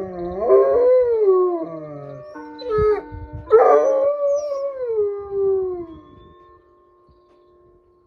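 A dog howling along with the noon chime melody: long drawn-out howls that fall in pitch, the second starting about three and a half seconds in, over the chime's steady held notes. Both die away about six seconds in.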